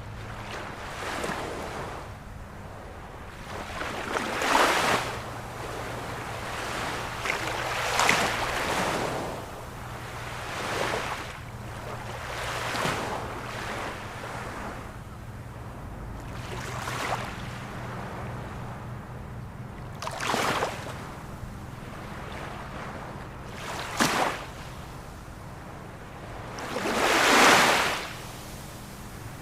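Ocean waves breaking and washing ashore, one wave every three to four seconds over a constant wash of surf, the loudest breaking near the end.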